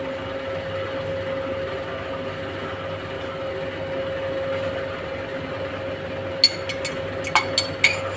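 A steady mechanical hum with a constant tone runs throughout. From about six and a half seconds in comes a run of sharp metallic clinks of utensils against cookware.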